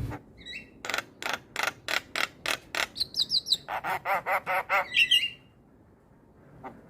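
A starling-family bird (jalak) calling a rapid series of harsh chak notes, about three a second, with a few short whistles mixed in. The calls stop about five seconds in and start again at the very end.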